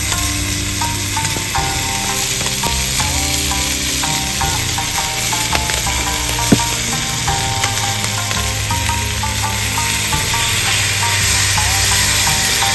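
Food sizzling as it fries, a steady hiss, with background music of short plucked-sounding notes over it and a single sharp click partway through.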